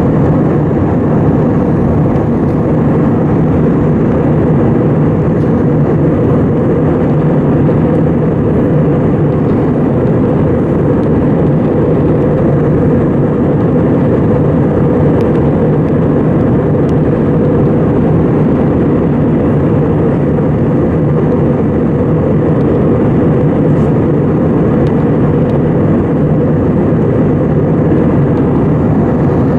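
Steady cabin noise inside an Airbus A320 in flight: an even rush of engine and airflow noise, strongest in the low range, unchanging throughout.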